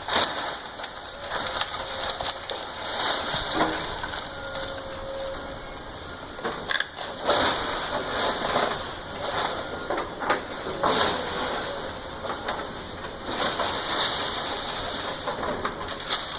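House being torn down: irregular crunching and cracking of wood and debris breaking apart.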